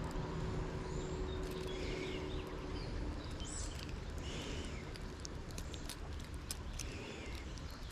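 Outdoor ambience: a few short bird chirps over a steady low rumble, with scattered sharp ticks and a faint hum that fades out about three seconds in.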